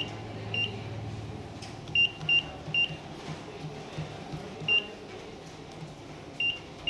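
Pro-face HMI touchscreen panel giving short, high single-tone beeps, about seven at irregular intervals, with three in quick succession about two seconds in. This is the key-press beep of the panel answering each touch.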